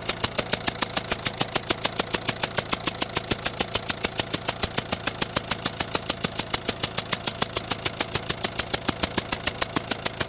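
Citroën Berlingo 1.6 HDi diesel engine idling with a sharp, regular tick about seven times a second over the engine's steady running. This is the noise that stays after the smoky start and does not die away as the engine warms, though the engine otherwise seems to run normally.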